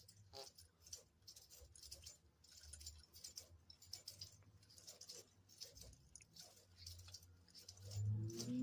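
Faint, irregular clicking and tapping from doves moving about, with the father dove half feeding the young dove.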